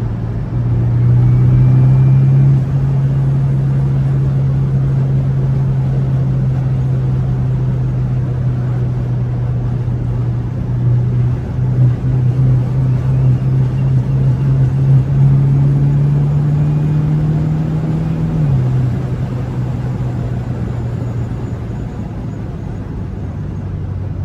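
BMW 428i's turbocharged four-cylinder with an aFe aftermarket intake, heard from inside the cabin while driving under steady throttle. The engine note climbs slowly, then drops about three-quarters of the way through as the revs fall, and the sound eases off.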